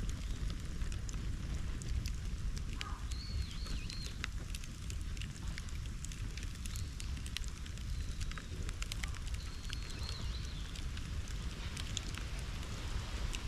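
Bonfire crackling, with many irregular sharp pops and snaps over a steady low rumble.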